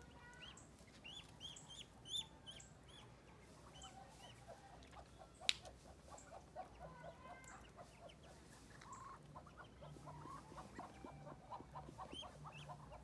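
Ducklings peeping in short, high, arched chirps, with runs of rapid lower calls in the second half and a single sharp click about five and a half seconds in.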